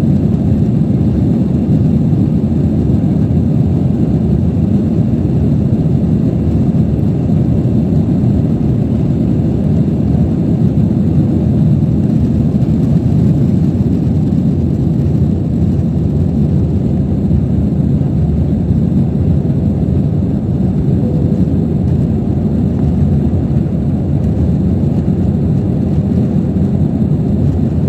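Airbus A320 cabin noise: a loud, steady low rumble of the jet engines and airflow heard from inside the passenger cabin.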